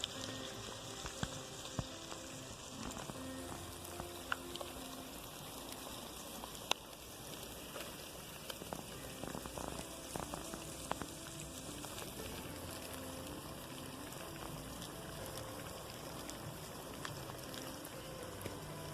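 Steady crackling, sizzling noise with many scattered small clicks.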